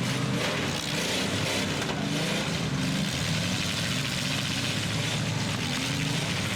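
Engines of demolition derby trucks and SUVs running, their pitch rising and falling.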